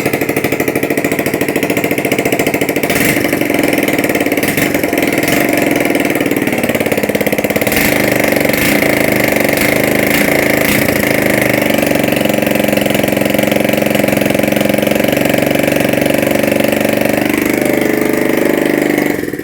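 Freshly rebuilt scooter engine, with a new piston group, running steadily on its first start after the overhaul. Its speed dips and picks up again about a third of the way in and shifts once more near the end, and then it stops suddenly.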